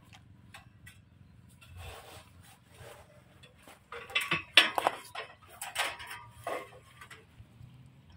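Metal parts and hand tools clinking and knocking against each other during assembly work on a homemade circular saw. A few light clicks come first, then a run of louder metallic knocks with short ringing about four seconds in.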